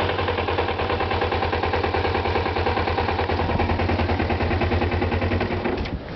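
Kawasaki ZZR-250's parallel-twin four-stroke engine idling steadily with an even beat while it warms up from a cold start. The steady beat stops about six seconds in.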